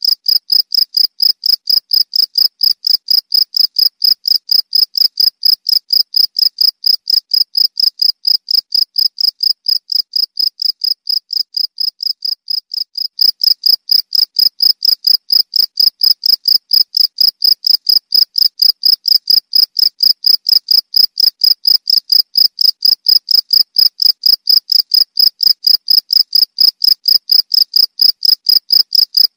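Cricket chirping steadily in a fast, even train of high-pitched pulses, about four to five a second. It is briefly softer a little before the middle.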